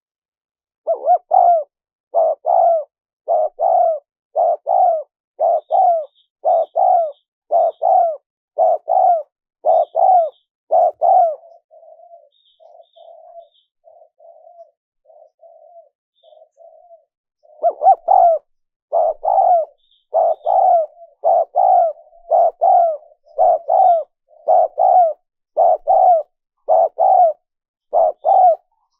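Spotted dove cooing in a long run of loud, regularly repeated coo phrases. Midway it drops for several seconds to softer, shorter coos, then the loud cooing resumes. Faint high chirps are heard above.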